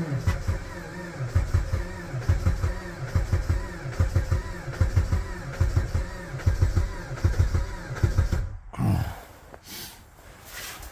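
Jeep Patriot's 2.4-litre four-cylinder engine being cranked by the starter in extreme cold, firing unevenly in low thumps without catching. The cranking stops abruptly about eight and a half seconds in.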